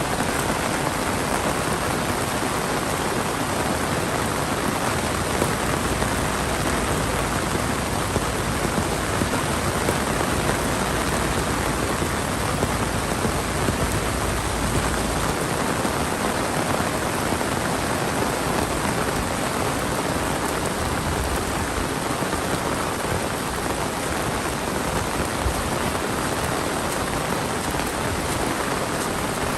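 Heavy monsoon rain pouring steadily, a dense even hiss of rain falling on surfaces.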